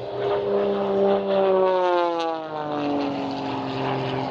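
Propeller-driven stunt plane flying past, its engine note sliding down in pitch about two seconds in as it goes by.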